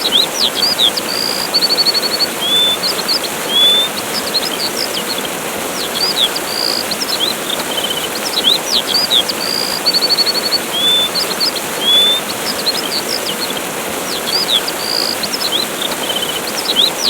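Steady rush of a waterfall with songbirds chirping over it: short whistles, trills and chirps. The same run of calls comes back every seven to eight seconds.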